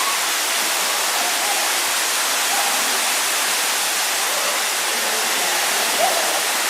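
Waterfall pouring steadily: a constant rush of falling water.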